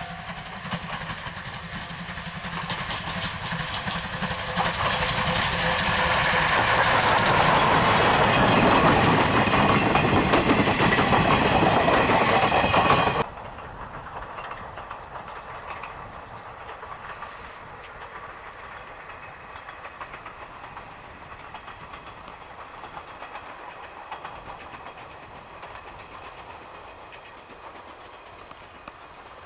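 C12 66 steam locomotive and its train passing close by, building to a loud rush of rail and exhaust noise with clickety-clack. It cuts off abruptly about halfway through, giving way to a quieter, steady train sound that slowly fades.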